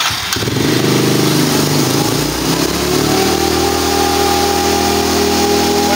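Motorcycle engine on a chassis dynamometer, the throttle opened: the engine note climbs and wavers for about two seconds, then holds steady as the dyno keeps the roller at its 50 km/h set speed. A steady whine joins about three seconds in.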